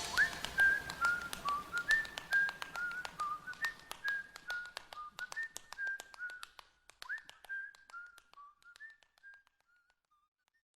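Whistled melody in short notes stepping up and down, over a patter of light clicks, fading out and gone about nine seconds in.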